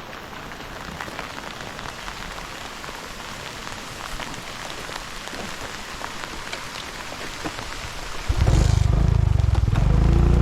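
Steady rain falling, with many small raindrop ticks. About eight seconds in, a much louder engine starts running suddenly and drowns out the rain.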